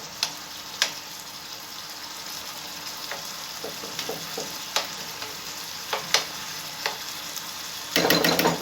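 Shrimp and calamari sizzling in oil in a frying pan while being stirred, a steady hiss broken by scattered clicks of the utensil against the pan. Near the end there is a louder burst of stirring.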